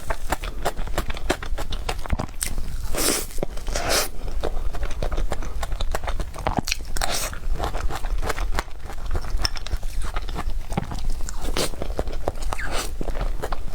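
Close-miked chewing and mouth sounds of someone eating cake: a steady run of quick mouth clicks, with a few louder bites and chews along the way.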